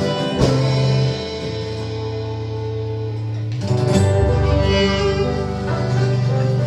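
Acoustic band playing an instrumental passage: guitars strumming chords over a steady bass, with some fiddle, a new chord struck about three and a half seconds in.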